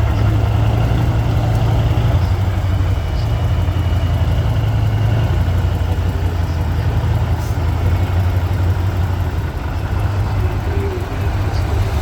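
Heavy off-road trial truck's diesel engine running steadily at low revs, a deep even drone.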